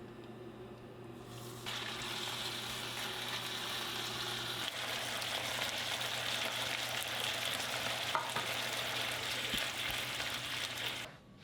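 Food sizzling in hot oil in a frying pan. The sizzle gets louder about two seconds in and cuts off suddenly near the end, with a low steady hum beneath it.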